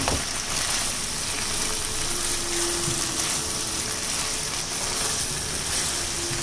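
Chicken mince in sauce sizzling steadily in a frying pan over high heat, stirred with a spatula as the sauce cooks down and dries up.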